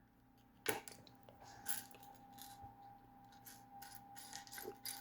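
Small plastic building-brick pieces clicking and rustling faintly as they are sorted through by hand, with one sharper click under a second in.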